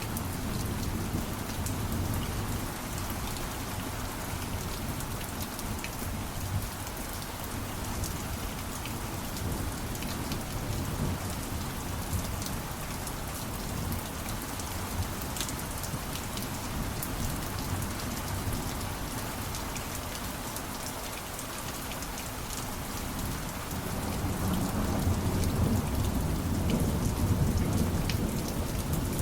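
Steady heavy rain falling on a surface, with fine drop ticks throughout and a low rumble of thunder that swells near the end.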